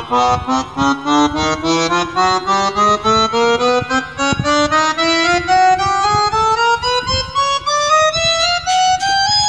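Roland E-X20 electronic keyboard played one key at a time in a steadily rising run up the keyboard, each note sounding separately. This is a key-by-key test after a key-contact repair, with every key sounding.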